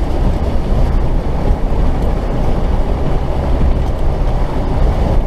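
Off-road 4x4's diesel engine running steadily under load, heard from inside the cab as the truck works through a muddy lane.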